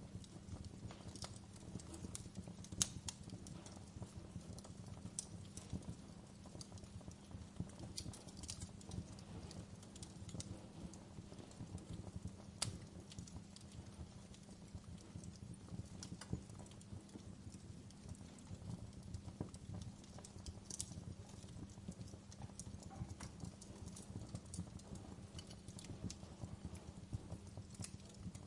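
Wood fire crackling in a fireplace: scattered sharp pops and snaps over a low, steady rumble of burning wood, with a louder pop about three seconds in and another about twelve seconds in.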